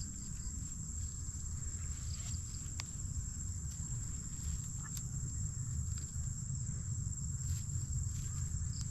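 Insects droning in one steady high-pitched tone, over a constant low rumble, with a few short clicks.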